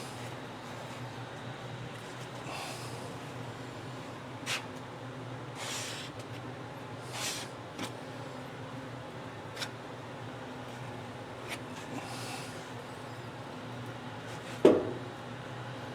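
Hand body work on a car fender: several short scraping swishes and a few light clicks over a steady low shop hum, with one louder knock near the end.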